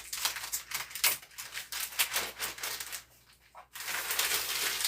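Thin plastic window sheeting crinkling and rustling as it is handled and pressed into place, in a quick run of crackles, dipping briefly about three seconds in before a denser, steadier rustle near the end.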